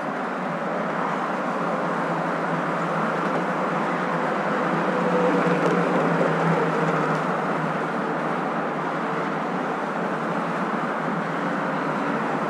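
Steady hum and rush of a moving car, its engine and road noise continuous, with a slight swell about five seconds in.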